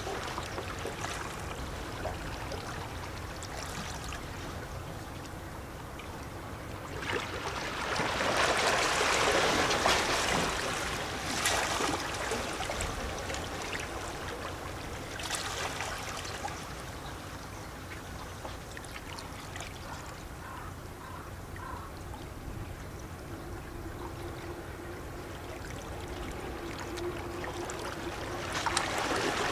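Small sea waves lapping and sloshing against shoreline rocks, with gurgling and trickling water. A larger wash swells up about a quarter of the way in, with smaller surges around the middle and near the end.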